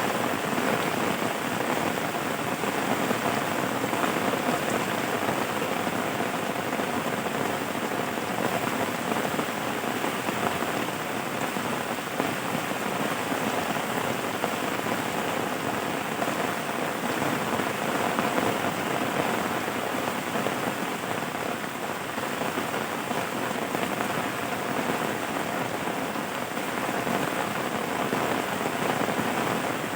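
Steady rain falling, an even, unbroken wash of drops that holds the same level throughout.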